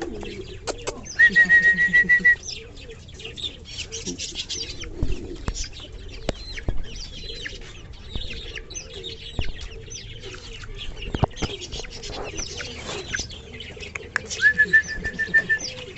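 Bantam chickens clucking and calling, with many short high chirps throughout. Twice a loud, high, held call lasts about a second: once near the start and again near the end.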